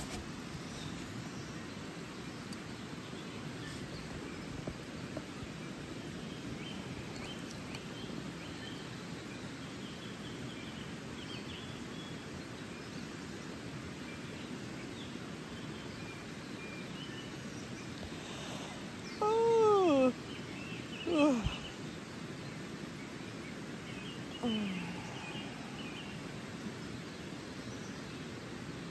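Steady rushing outdoor background noise with faint bird chirps. About two-thirds through comes a loud pitched cry that falls in pitch, then a second short glide just after, and a fainter falling call a few seconds later.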